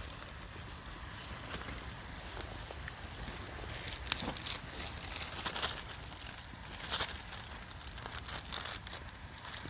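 Plastic instant-ramen packets being torn open and crinkled, with a few sharp crackles through the middle.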